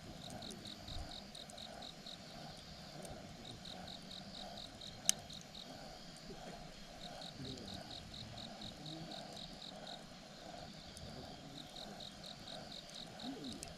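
Crickets chirping in repeated pulsing trains, with a single sharp crackle from the campfire about five seconds in.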